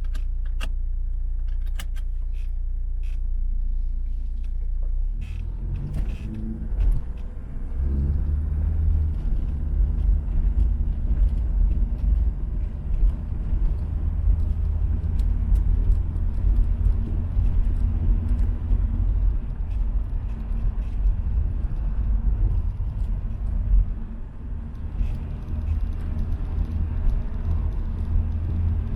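Peugeot 505 GTD Turbo's four-cylinder turbodiesel engine idling steadily, with a few light clicks. About five seconds in it changes to a louder, rougher low rumble as the car drives off.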